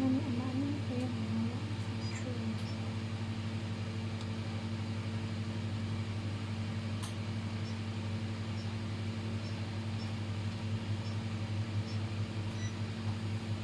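Steady electric hum of a countertop oven running while the food inside browns.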